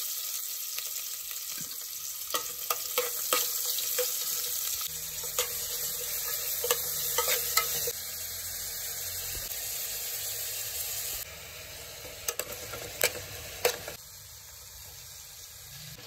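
Chicken pie filling of chopped vegetables and shredded chicken sizzling in a pan while it is stirred, the spoon clicking against the pan now and then. The sizzle quietens in steps toward the end.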